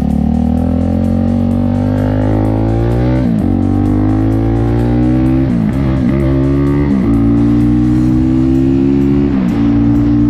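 KTM motorcycle engine accelerating through the gears: the engine note climbs steadily, then drops sharply at each upshift, four times, with rock music mixed underneath.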